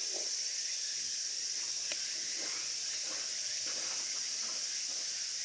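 Steady, high-pitched shrill chorus of summer insects that holds without a break, with a faint click about two seconds in.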